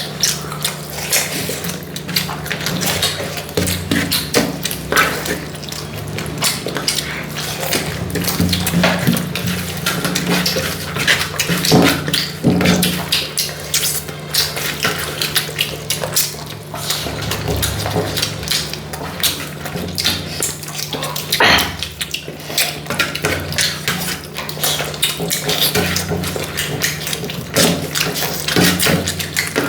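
Eating sounds of chicken kosha and rice: chewing and mouth noises with many small clicks and plate clinks, over a steady low hum.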